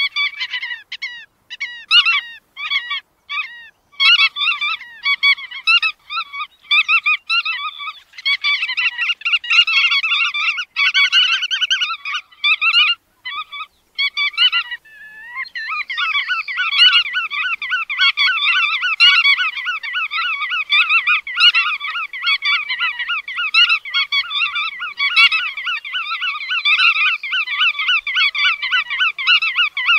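Bar-tailed godwits calling: short repeated call notes, separated by gaps at first, then from about halfway a fast, unbroken chatter of calls.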